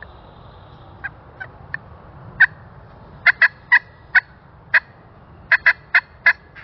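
Turkey clucking and cutting: about a dozen short, sharp notes, irregularly spaced and coming faster in the second half, over a steady low hiss.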